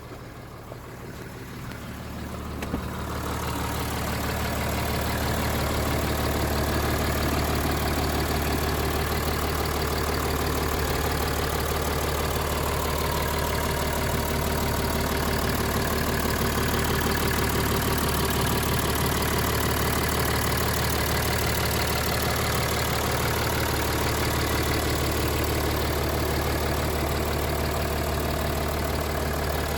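Mercedes-Benz E350 3.0-litre V6 turbo diesel engine idling steadily. It grows louder over the first few seconds, then holds an even, deep running note.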